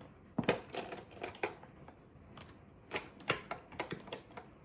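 Two clusters of quick, small clicks and taps from makeup tools being handled and worked close to the microphone.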